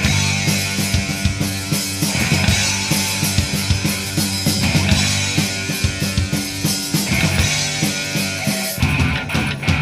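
Rock band playing live: electric guitar over bass and a steadily struck drum kit, with no singing.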